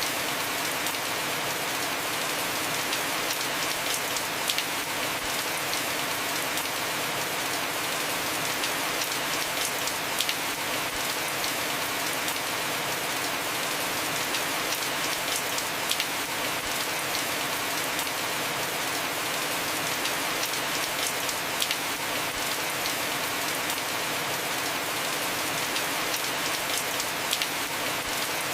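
Heavy, steady rain falling on a roof, a dense even hiss with scattered sharper drop hits.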